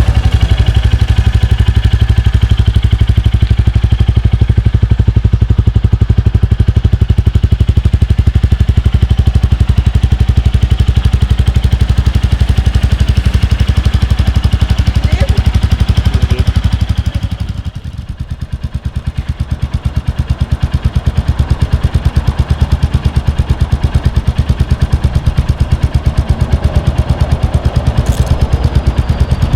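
Royal Enfield Classic 350's 349 cc single-cylinder engine thumping through its exhaust in a fast, even beat. Just past halfway it eases off and goes quieter for a few seconds, then picks up again.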